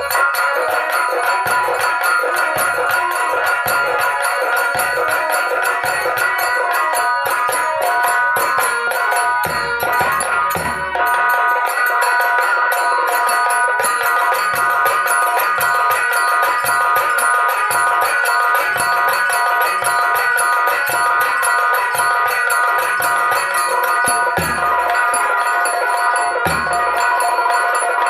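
Instrumental Ahirauwa nach folk music played with nagada drums: a sustained, held melody line over steady rhythmic drumming with jingling percussion.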